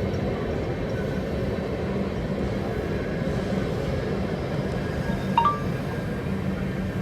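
Electric train running on the track: a steady rumble with a low hum. About five seconds in there is one brief high tone.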